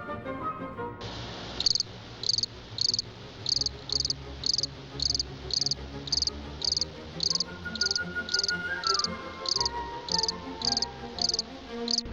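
Cricket chirping in a steady rhythm, about two high chirps a second, starting about a second and a half in, over soft background music.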